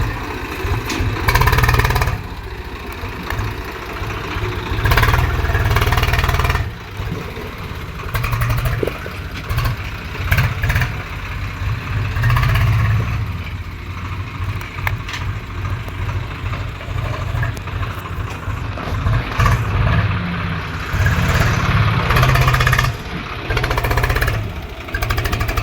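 Tractor engine running, with the revs repeatedly swelling and easing off.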